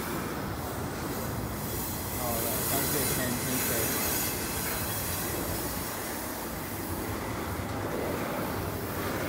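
Double-stack intermodal container cars of a CN freight train rolling past, a steady rumble of steel wheels on the rails with some wheel squeal.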